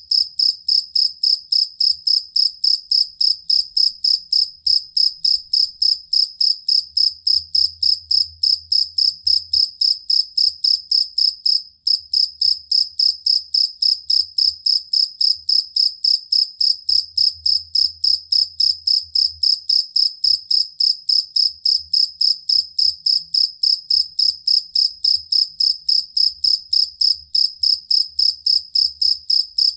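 Field cricket (jangkrik kalung) singing a steady, even run of shrill chirps, several each second, with one brief break about twelve seconds in.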